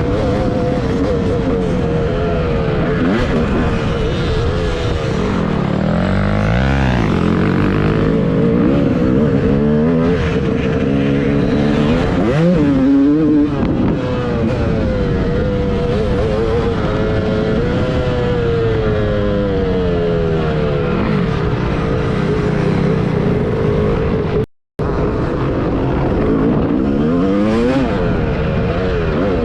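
Dirt bike engines revving up and down as the bikes ride and shift, with pitch rising and falling repeatedly and more than one engine heard at once. The sound cuts out briefly about three-quarters of the way through.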